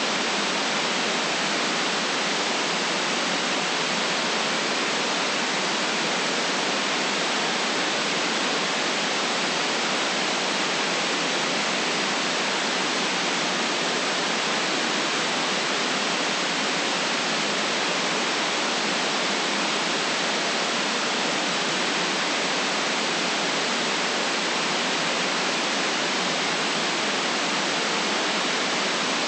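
Steady white noise: an even, unchanging hiss with no deep rumble beneath it.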